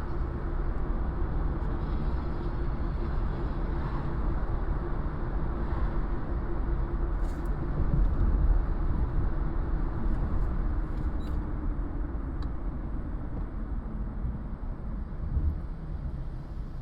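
Car driving on city streets: a steady low rumble of engine and tyres with a faint steady hum. A few light clicks come about seven and eleven seconds in.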